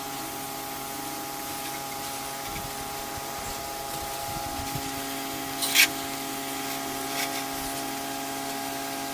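Pressure-washing equipment running steadily with the hiss of water spraying, and one sharp click about six seconds in.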